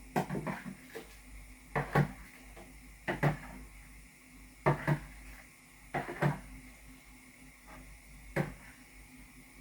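A series of sharp knocks and clatters from kitchen things being handled, about six spaced a second or two apart.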